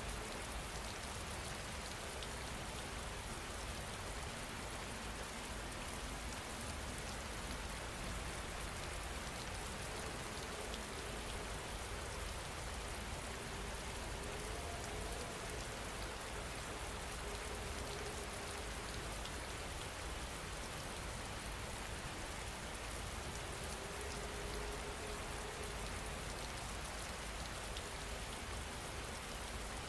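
Steady rain falling, an even continuous hiss that does not change in level.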